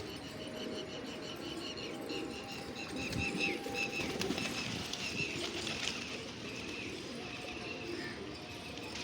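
Pigeons cooing, with a steady run of quick, high chirps over the top, several a second.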